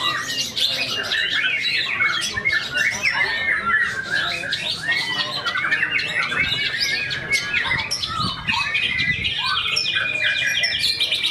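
White-rumped shama (murai batu) singing a rapid, unbroken, varied song of chirps, whistles and gliding notes, packed with mimicked 'isian' phrases.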